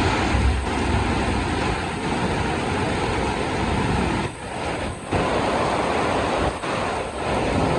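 Heavy rain falling, a dense even hiss with a low rumble underneath; the sound dips briefly a couple of times about halfway through.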